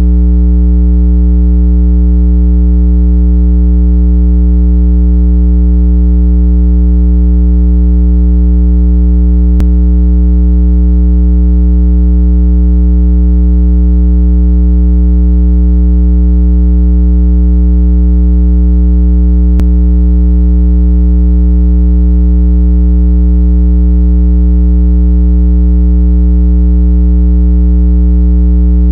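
Loud, steady electronic low tone, a water-eject sound for shaking water out of earbud and phone speakers. It holds one unchanging buzzy pitch with a stack of overtones, with faint clicks about ten seconds apart.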